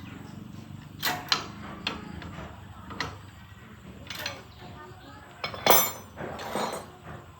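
Scattered metallic clinks and knocks of hand tools against engine parts during a tractor engine repair, the loudest clank about two-thirds of the way through, over a low steady hum.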